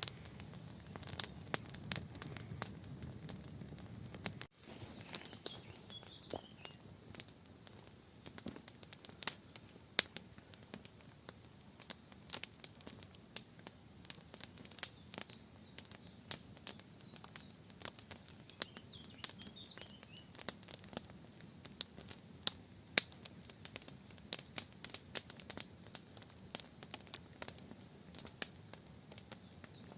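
Wood campfire crackling, with irregular sharp pops a few times a second over a low steady hiss. Faint bird chirps come in twice.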